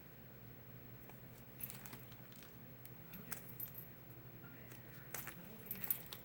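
Faint, scattered rustles and light clicks of handmade cards in plastic sleeves being handled, a few sharper ones near the end.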